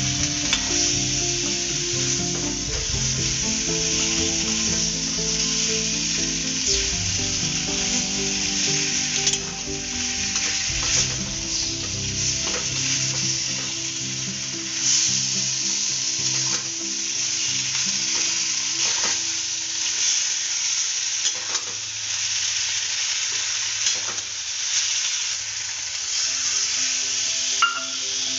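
Potato chunks and chickpeas sizzling in hot oil in a metal wok, with a metal spatula scraping and stirring them in irregular strokes.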